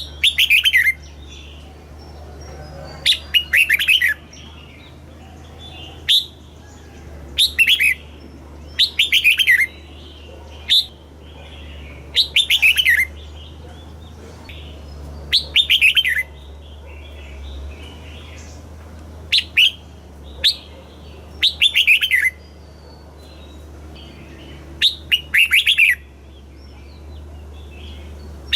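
Red-whiskered bulbul singing: short phrases of quick, falling whistled notes, repeated every one to three seconds, over a low steady hum.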